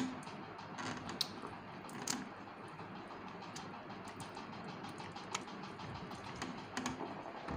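A person chewing fish up close, with scattered sharp mouth clicks and smacks over a faint steady hiss.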